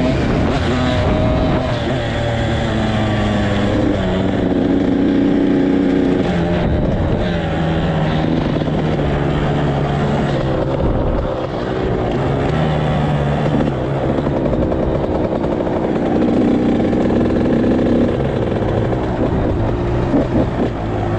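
Small off-road vehicle engine running while being ridden, its pitch rising and falling in steps with throttle and gear changes, over a heavy low rumble.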